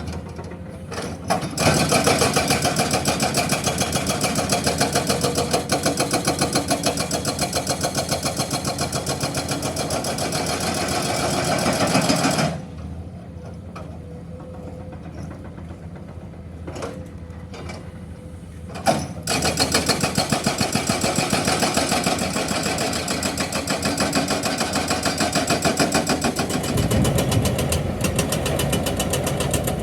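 Excavator-mounted hydraulic breaker hammering limestone in a rapid, steady run of blows. It stops for about six seconds midway, leaving only the excavator's engine running, then starts hammering again.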